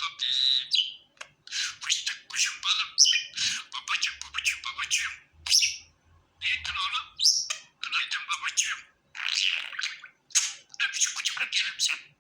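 Budgerigar warbling and chattering: rapid scratchy chirps and squawks in short phrases with brief pauses between them.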